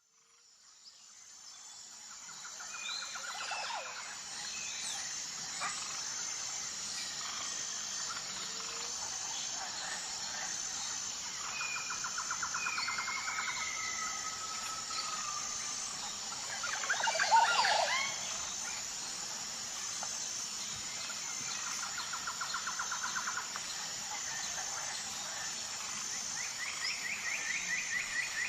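Sparrow calling: several short trills of rapid repeated notes coming every ten seconds or so, and a louder burst of chirps a little past halfway, over a steady high buzz.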